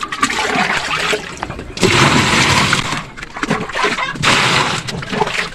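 Water pouring and splashing into the tub of a washing machine as it is filled. The rush thins briefly about halfway through, then picks up again.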